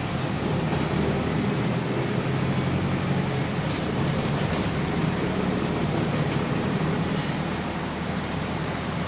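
Wright StreetDeck double-decker bus under way, heard from on board: a steady engine drone with road noise and a thin, high hiss.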